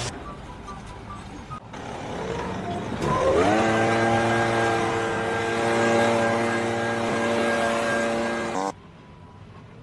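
A motor winds up quickly, runs at a steady high pitch for about five seconds, then cuts off abruptly. Before it winds up there is a noisy stretch with no clear tone.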